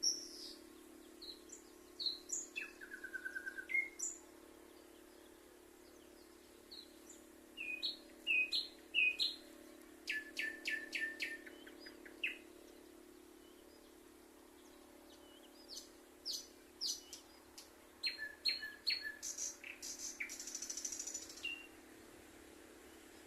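Songbirds singing in bursts of quick high chirps and rapid trills, with pauses of a few seconds between phrases, over a faint steady low hum.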